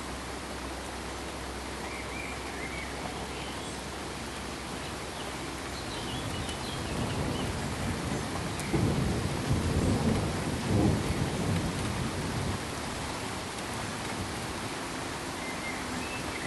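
Steady rain-like hiss with a low rumble of distant thunder that swells about six seconds in, peaks around ten seconds, and fades away by about twelve.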